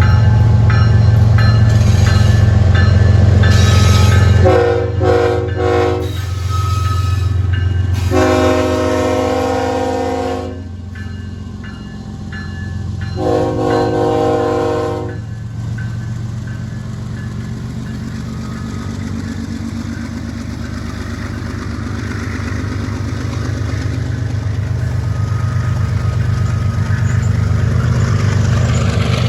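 Freight train's diesel locomotive rumbling past, then its horn sounding: a few short toots about four seconds in, followed by two longer blasts. After the horn the passing train goes on as a steady rolling rumble of wheels on rail that grows louder near the end.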